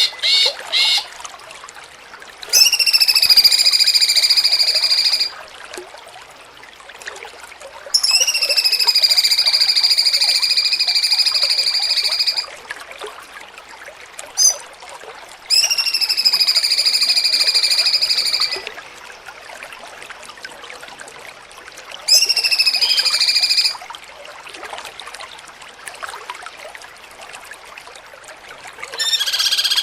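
Cucak cungkok singing in the 'jengking munting' style: four long calls, each starting with a quick rising sweep and then holding one steady high note for two to four seconds, with a few short quick notes at the start and a single short note in the middle.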